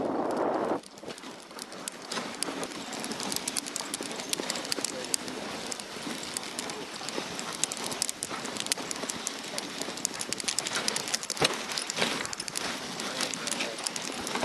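A sled-dog team running on snow: a quick patter of paws with the sled's runners hissing over the snow and many small clicks and crunches. A louder rush in the first second cuts off suddenly.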